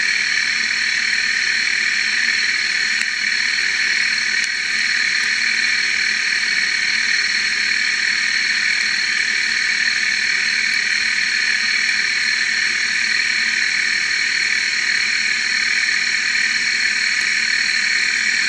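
CNC lathe contour-turning stainless steel: a loud, steady hissing machining noise with a few steady tones running through it.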